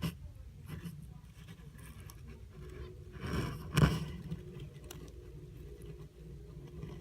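Handling noise: a few light scrapes and taps over a low rumble, then a short rustle about three seconds in and a sharp knock just after.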